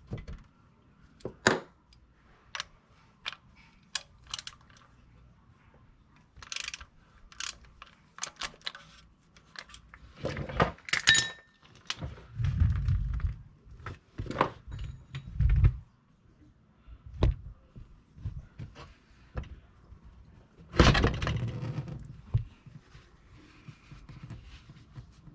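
Irregular clicking of a ratchet turning a cup-type oil filter wrench as the oil filter is unscrewed, with clanks and knocks of metal tools and the filter being handled. The loudest clanks come about halfway through and near the end.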